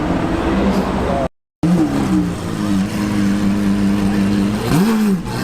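Exotic sports car engine idling steadily, with a quick rev that rises and falls near the end. The sound drops out completely for a moment about a second in.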